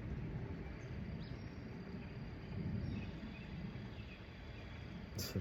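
Outdoor ambience: a low, uneven rumble with a faint steady high insect tone and a few faint short chirps. A sharp click comes near the end.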